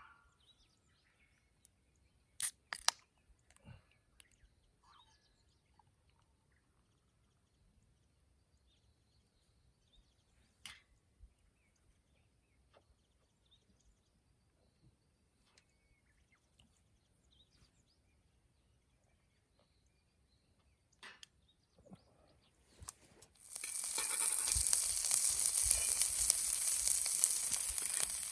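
A few light clicks and knocks of cooking gear over a quiet background. Then, about five seconds before the end, food goes into a hot pan and starts sizzling steadily.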